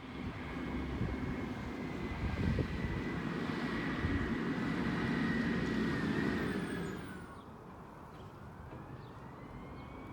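Peterbilt 320 garbage truck running hard, with a steady high whine over the engine noise for about seven seconds before it drops back to a lower, steady running level. A faint tone glides up and down near the end.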